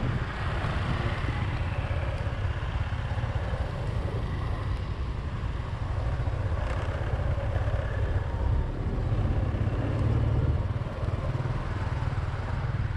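Riding a motorbike through town traffic: a steady rush of wind on the microphone over the running engine and the street around it.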